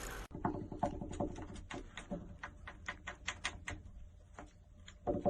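An irregular run of light, sharp clicks and taps, a few a second, some with a faint ringing tone.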